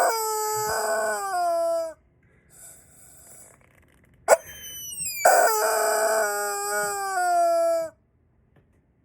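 Rubber chicken squeezed twice, each time giving a sharp click, a rising wheeze, then a long shrill squawk that slides down in pitch for about two seconds.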